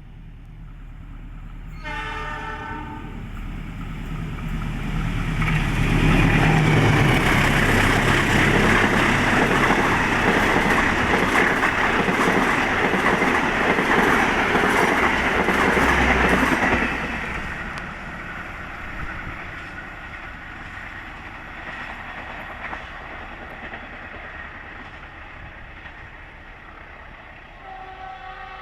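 Diesel-hauled passenger train passing close by: a short blast of the locomotive's horn about two seconds in, then the loud rush and clatter of the train going past for about twelve seconds, fading away afterwards. A brief horn-like tone comes again near the end.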